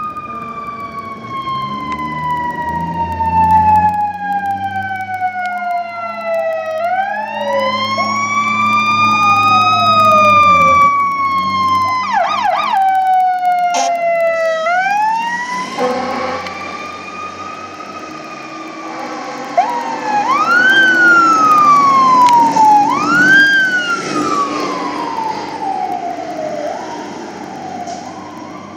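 Fire truck's mechanical coaster siren, a Federal Q2B, winding up and coasting slowly down in long wails, then pushed in quicker rising yelps past the middle, over the rumble of the truck's engine.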